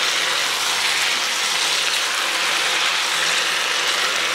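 Moose meat and onion sizzling steadily in a hot frying pan as they are stirred together with a spatula, the meat searing at the end of its roughly four-minute fry.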